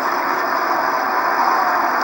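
Steady crowd noise in a hockey arena during live play.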